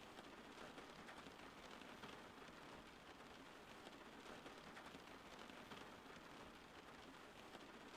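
Steady rain falling, a faint even hiss with fine patter of drops.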